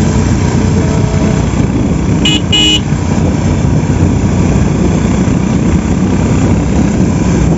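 A motor vehicle's engine running steadily, with two short horn beeps in quick succession a little over two seconds in.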